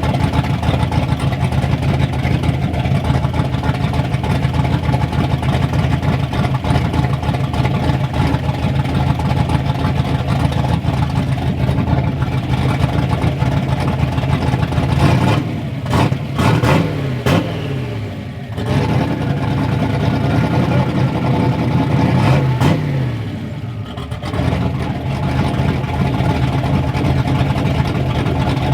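Ford Ranger's rebuilt turbocharged engine running steadily, revved up twice, about halfway through and again a few seconds later, each time settling back down to idle.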